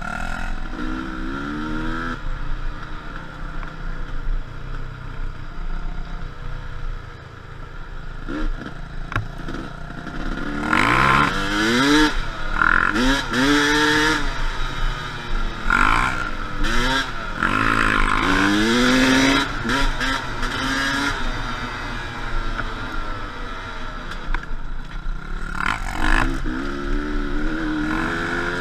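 Enduro dirt-bike engines revving again and again, the pitch climbing and dropping with the throttle. The revving is loudest from about ten seconds in to about twenty seconds in.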